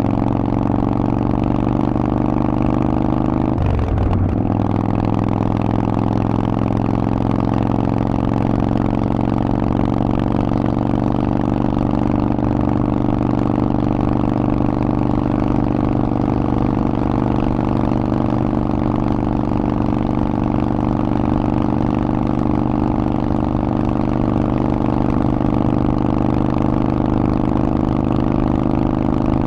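Harley-Davidson Forty-Eight's air-cooled 1200 cc V-twin running through a Vance & Hines aftermarket exhaust, holding a steady engine speed, with one short break in the even note about four seconds in.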